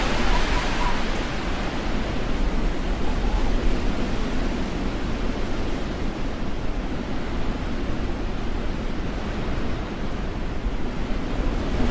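Strong storm wind blowing across the microphone: a steady rushing roar with a low buffeting rumble.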